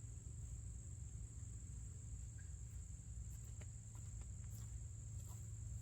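Insects trilling steadily in one high, unbroken tone, with a few faint clicks and rustles in the second half.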